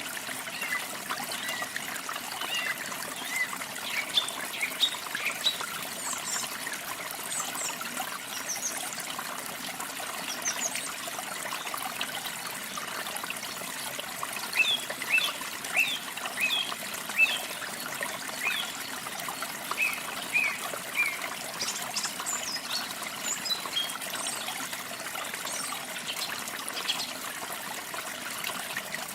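Small songbirds chirping in short, scattered calls over a steady trickle of running water.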